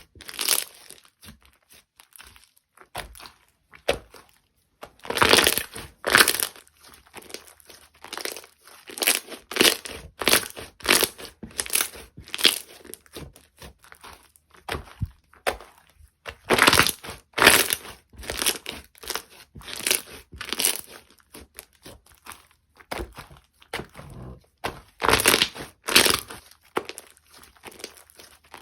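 Slime being squished and kneaded by hand, giving a run of short, irregular crinkling, crackly squelches, about one or two a second, with brief quiet gaps.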